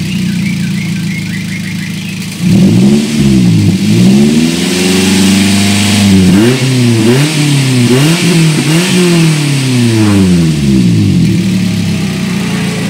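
Daihatsu Gran Max 1.5's four-cylinder engine being revved repeatedly while the van stands still, its pitch rising and falling. A sharp rise comes about two and a half seconds in, followed by a few longer revs and a run of quick throttle blips in the middle, before it drops back toward idle near the end.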